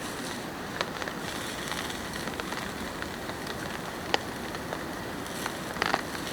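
Steady rain falling, an even hiss with a few sharp ticks of heavier drops, the loudest about four seconds in and another near the end.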